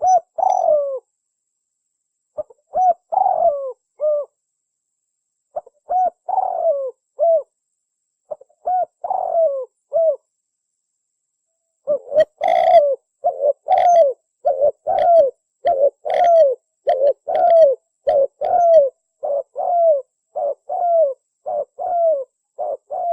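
Spotted dove (tekukur) cooing. It gives repeated phrases of several coos each, separated by pauses, for the first half. Then from about halfway a faster, unbroken run of coos follows. This is a lure call for attracting wild doves.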